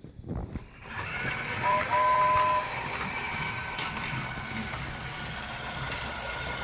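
LEGO Duplo toy train switched on, its small motor running steadily with a whirring whine, starting about a second in. About two seconds in there is a short tone at two pitches.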